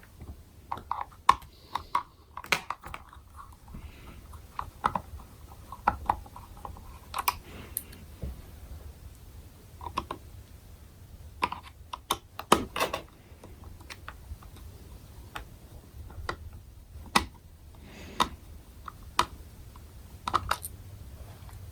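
Irregular clicks and taps of hard plastic helmet parts and small screws being handled as a narrow rear flap is fitted to a Shoei X-14 helmet shell with a small Phillips screwdriver.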